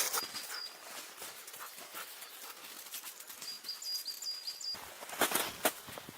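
A few crunching footsteps in snow, the loudest a couple of steps about five seconds in, with a short run of faint high-pitched chirps just before them.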